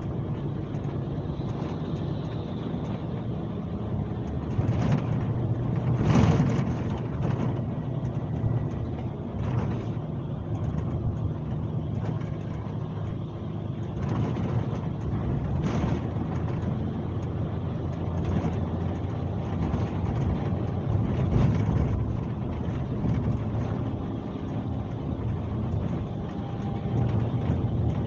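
Scania K370C coach's five-cylinder diesel engine running steadily while the coach is underway, heard on board. The engine note shifts in pitch a few times, and there are a few brief knocks.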